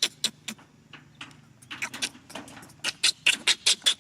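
Infant macaque crying: short, shrill squeals repeated several times a second, in two bouts, with a pause about a second in and a denser run near the end.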